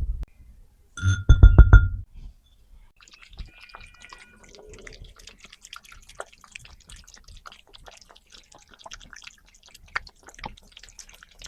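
A ringing clink of dishware about a second in, like a bowl or plate being set down, with a short thud under it. Then many faint, irregular small taps and clicks of utensils and dishes being handled during food preparation.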